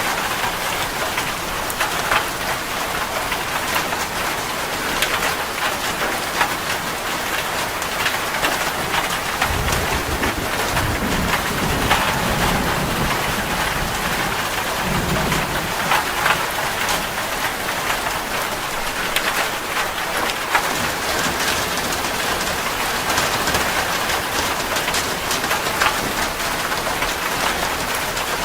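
Steady heavy rain on a metal roof, with individual drops ticking through it. About ten seconds in, a low roll of thunder rumbles for some six seconds.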